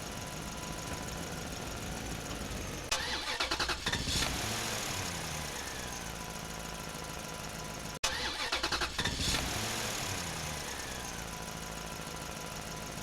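Engine-starting sound, played twice: a brief rapid cranking of about a second, then the engine catches and its pitch falls back to a steady idle. The two starts are identical, as from a looped recording.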